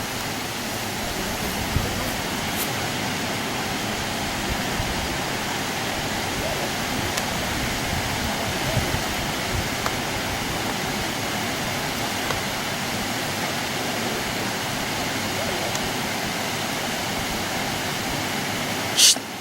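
Steady rushing of running water. Near the end comes one brief, loud, high-pitched sound.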